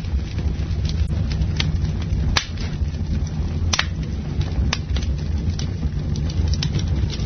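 A wood bonfire burning, with a steady low roar and irregular sharp crackles and pops from the burning wood.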